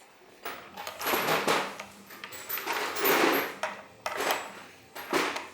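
Metal hand tools clinking and clattering in several irregular bursts of handling and rummaging, with faint metallic ringing.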